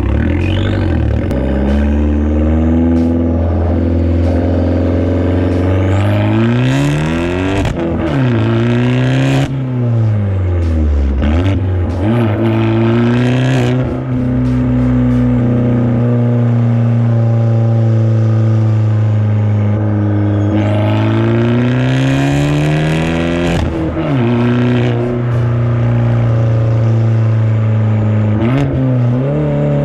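Fiat 500 Abarth's turbocharged 1.4-litre four-cylinder running through a catless downpipe and catless cat-back exhaust, very loud, revving up and dropping back several times under acceleration, with a steady cruising stretch in the middle.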